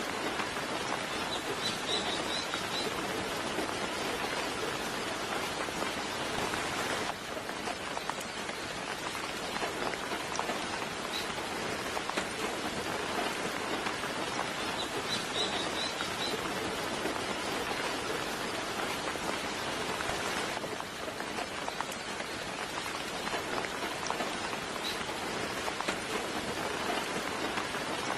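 Steady soft rain falling, an even patter throughout. A small bird gives short, high chirping trills a few times, about every thirteen seconds.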